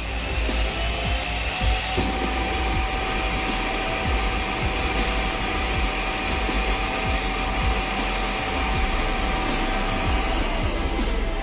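ROIDMI EVE Plus robot vacuum's suction motor spinning up with a rising whine, running steadily, then winding down near the end, over electronic background music.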